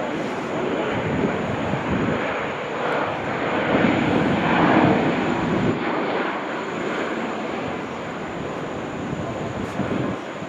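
Jet airliner engines passing, a broad rushing noise that swells to its loudest about four to five seconds in and then slowly fades.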